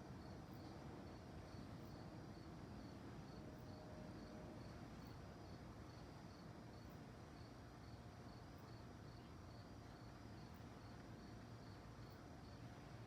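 Crickets chirping faintly in a steady, even rhythm of a few chirps a second, over a low steady background hiss.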